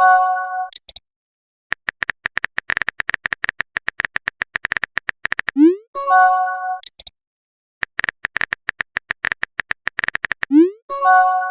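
Chat-app sound effects: quick runs of typing clicks, each ending in a short rising pop followed by a brief chime as a message is sent. The pattern of chime, clicks, pop and chime repeats twice.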